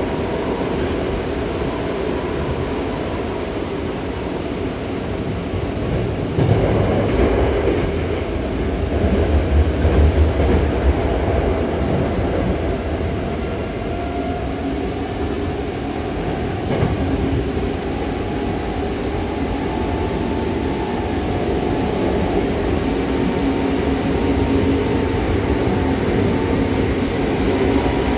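Hankyu Takarazuka Line electric train running, heard from inside the car by the doors: a steady rumble of wheels on the track, a heavier low rumble for a few seconds about a quarter of the way in, and a motor whine rising slowly in pitch over the second half as the train gathers speed.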